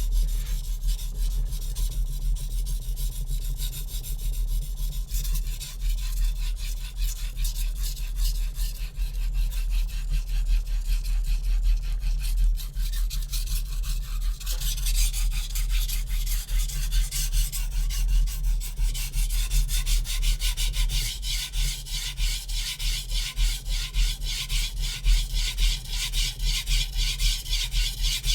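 HAP40 steel chef knife (about 66 HRC) stroked back and forth across a Naniwa Super Stone whetstone while sharpening the second side of the edge: a steady, rhythmic rasping scrape. About halfway through the strokes turn brighter and hissier.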